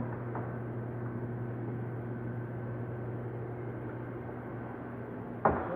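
A steady low hum over background noise, with one sharp knock near the end.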